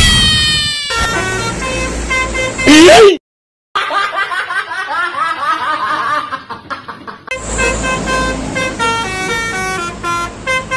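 Basuri 'telolet' bus horn playing a quick melody of short stepped notes, twice. Between the two runs come a loud swooping sound, a sudden half-second of silence, and a stretch of quick warbling tones.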